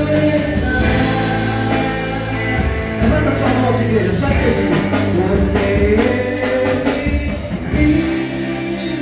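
Live church worship band playing a praise song, with singing over guitar, bass and drums keeping a steady beat.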